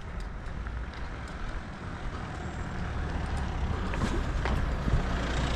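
A motor vehicle's engine running on the street, a low steady rumble that slowly grows louder.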